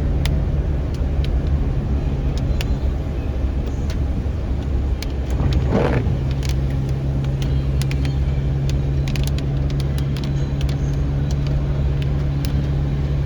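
Inside a car in heavy rain: steady engine and road rumble with a constant low hum, and scattered sharp ticks of raindrops striking the car. A brief swell of sound comes about six seconds in.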